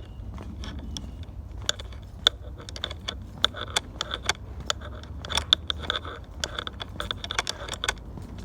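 Footsteps crunching and crackling on dry leaf litter and twigs along a woodland trail, as a string of irregular sharp clicks about two or three a second, with a faint high-pitched tone that comes and goes behind them.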